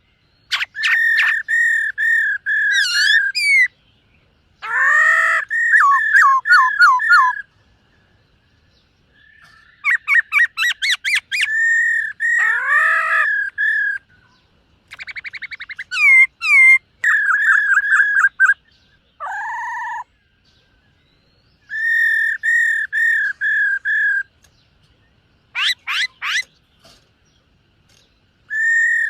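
Black-throated laughingthrush singing: loud runs of rapid, repeated whistled notes lasting two to four seconds each, mixed with sweeping calls, broken by short pauses.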